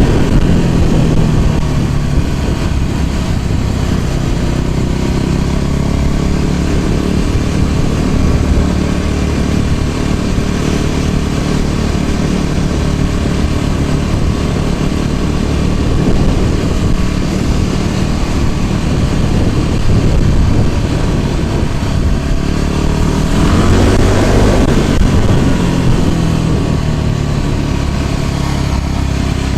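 Motor scooter's small engine running steadily under way, with heavy low rumble on the microphone. About three-quarters of the way through, an engine sound rises in pitch and then falls away, as when a vehicle passes.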